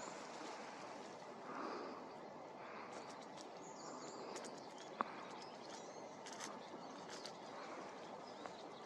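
Faint, short high chirps of small forest birds over a steady outdoor background hiss, with a single sharp click about five seconds in.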